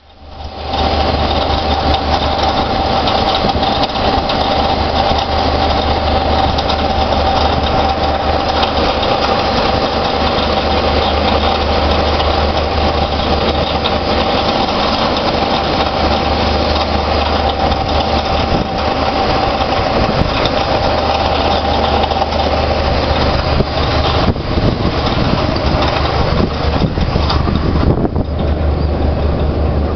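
Oil and gas drilling rig machinery running steadily: a loud, dense mechanical din over a low hum, with one steady mid-pitched whine.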